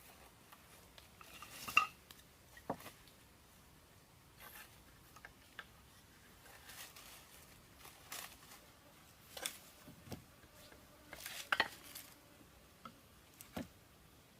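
Scattered light clinks and knocks of hard objects being handled, about a dozen spread irregularly, the loudest about two seconds in and another near eleven and a half seconds, some with a brief ring.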